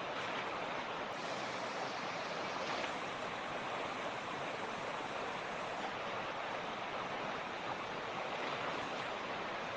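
Creek water rushing and burbling over stones in a steady, even wash.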